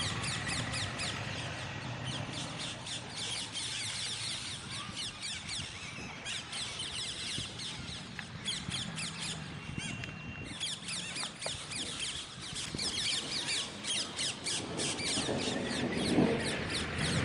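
Pet parrots chattering: many fast, high chirps overlapping without a break, with a short lull about ten seconds in. Near the end comes a louder low noise.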